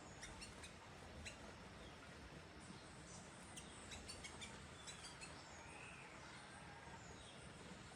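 Faint bird calls: scattered short, sharp chips and one brief arched whistled note about six seconds in, over a steady background hiss.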